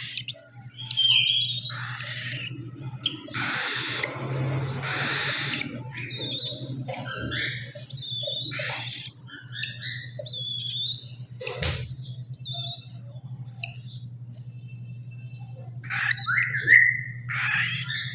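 Baby cockatiel calling: a string of short, high, whistly chirps that slide up and down in pitch, with a harsher raspy stretch about four seconds in, over a steady low hum.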